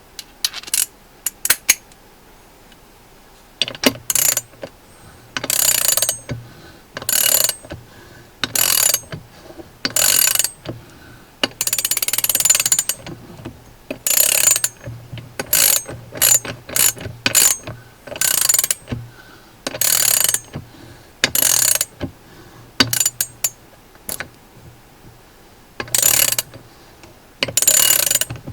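A 3/8-inch drive 72-tooth, two-pawl ratchet handle (ASH LVR3180) clicking as it is swung back and forth in repeated short bursts with brief pauses between them. A few single clicks come in the first couple of seconds before the bursts start.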